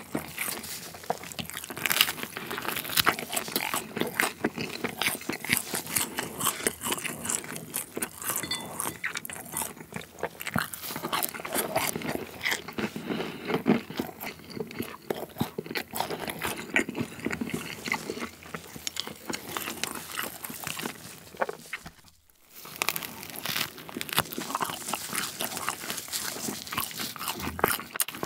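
Close-miked eating sounds: chewing and biting pieces of grilled tomahawk steak, with a steady stream of wet crackles and crunches.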